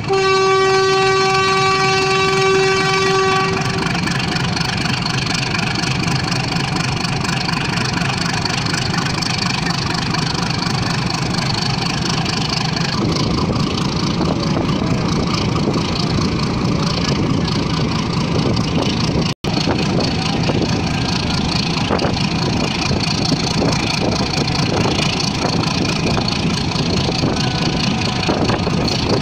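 A train horn sounds one long steady note for about three and a half seconds, then the steady rumble of the moving passenger train, heard from its roof, carries on. The sound drops out for an instant about 19 seconds in.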